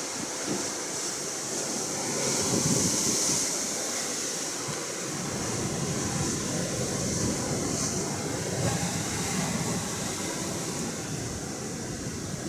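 Atlantic Ocean surf washing steadily, with wind, growing louder for a second or so about two seconds in.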